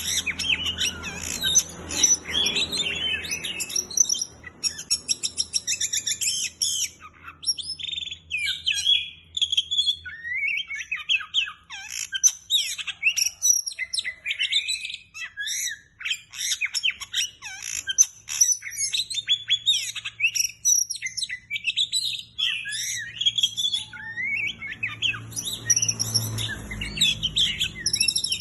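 Oriental magpie-robin (kacer) singing nonstop: a fast, varied stream of high whistles, rapid trills and harsh scratchy notes, in full 'gacor' song. A faint steady low hum runs underneath.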